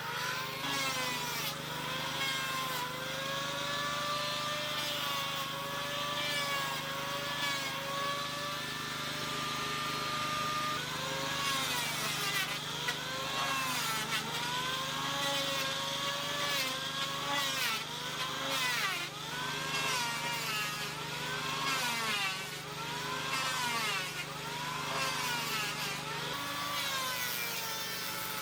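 A small engine running, its pitch rising and falling in repeated swells about once a second.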